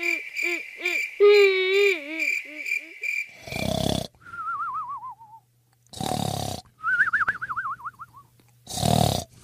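A cartoon cat's wobbling, wailing cry for the first three seconds or so, then cartoon snoring: three rasping snores in, each followed by a wavering whistle out that falls in pitch.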